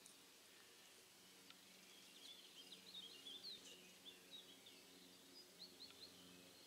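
Faint distant bird song: a quick series of high chirps in the middle, over a quiet outdoor background with a faint low hum.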